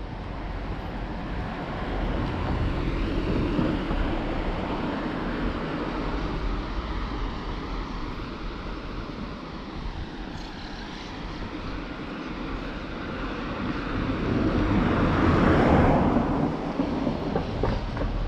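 Vehicle passing close by, a rushing noise that swells twice and is loudest about three-quarters of the way through.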